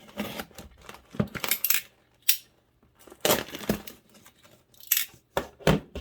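Shipping package being opened by hand: a series of short cutting, tearing and rustling sounds from tape and packaging.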